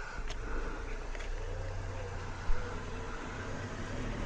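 A low, steady engine hum that grows louder near the end, with a single sharp knock about two and a half seconds in.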